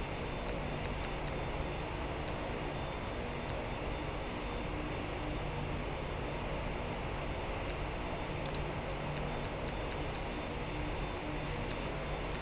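Jet aircraft engines running, a steady drone with no rise or fall.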